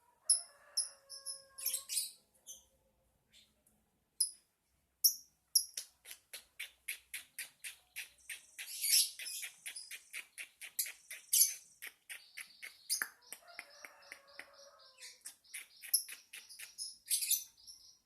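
Lovebird chattering song: high-pitched chirps, then a long, rapid run of clicking chirps at about five a second, with louder sharp chirps mixed in.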